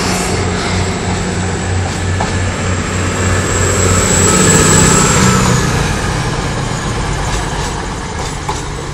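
East Midlands Trains diesel passenger train running past on the nearest track: a steady low engine drone over wheel and rail noise, with a thin high-pitched whine that fades out a little past halfway.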